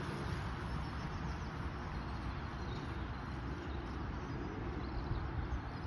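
Steady outdoor noise of rain, with wind rumbling unevenly on the microphone.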